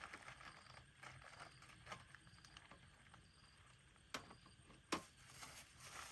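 Near silence: quiet outdoor ambience with faint high chirps about once a second, and two sharp clicks, one about four seconds in and one about five seconds in.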